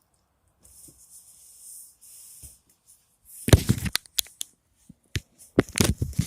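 Homemade slime being squished and worked by hand close to the microphone for ASMR. A faint hiss comes first, then from about halfway in a run of loud, sharp crackles and pops.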